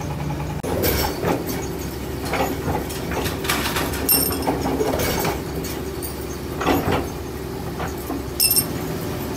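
Forging machinery running with a steady motor hum, with irregular sharp metal clanks and knocks over it, two of them ringing brightly.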